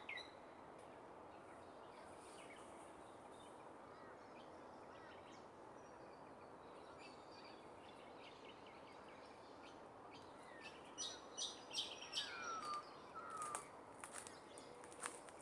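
Faint steady outdoor hiss with birds calling; a run of short chirps and a couple of falling whistles comes in about two-thirds of the way through.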